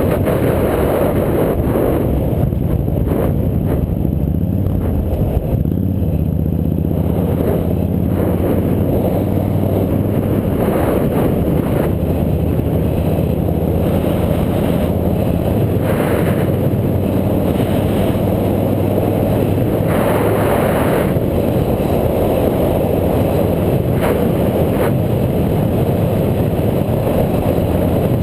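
Motorcycle engine running at a steady cruise, with wind rushing over the camera microphone.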